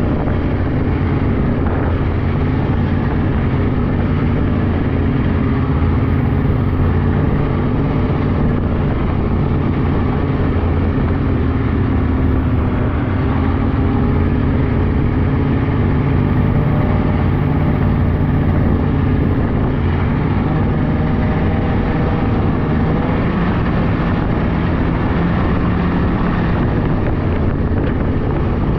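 Polaris 600cc snowmobile engine running steadily under way, its pitch wavering a little up and down with the throttle.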